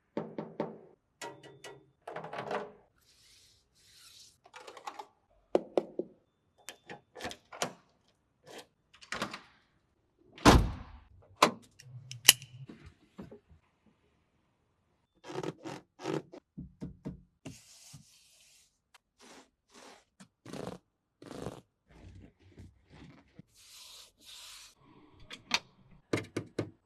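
Irregular series of thunks, clicks and short scrapes, as of something being handled, opened and shut, with the sharpest knocks about ten and a half and twelve seconds in.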